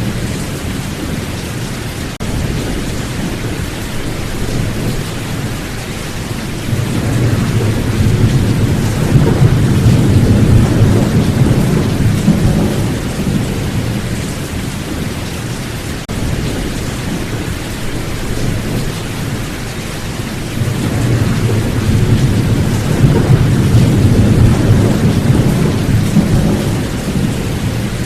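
Steady rain falling with rolling thunder: two long, low rumbles swell and fade, one about a quarter of the way in and another in the last third.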